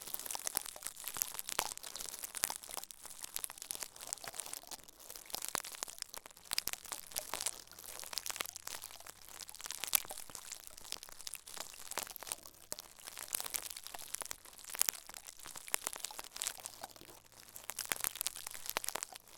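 Close-miked ASMR crinkling and crackling: a crinkly material being rubbed and crushed, giving dense, irregular crackles with sharper snaps now and then.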